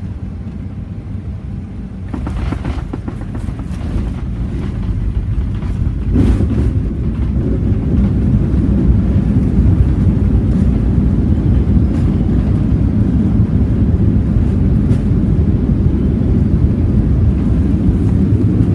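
Jet airliner cabin noise on landing in a Boeing 737-900ER: a steady low rumble that grows louder about two seconds in, with a few knocks, then a louder steady roar from about six seconds in, as the aircraft touches down and rolls out on the runway.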